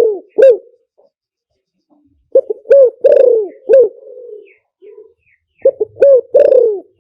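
Spotted dove cooing: two song phrases about three seconds apart, each a few short coos followed by a longer, drawn-out coo, in the 'three-kuk hanging' style. Fainter cooing continues between the phrases.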